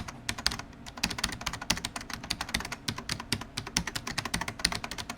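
Fast typing on a computer keyboard: a dense, irregular run of key clicks.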